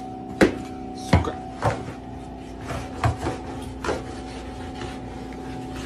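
A few irregular sharp knocks over a steady hum.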